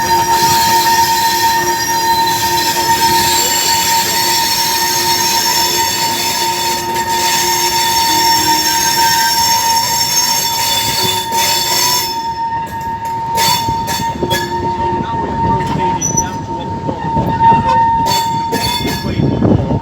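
Steel train wheels squealing against the rails: a steady high squeal with shrill upper tones that drop away about twelve seconds in, leaving the squeal over a rumble with scattered knocks that grows louder near the end.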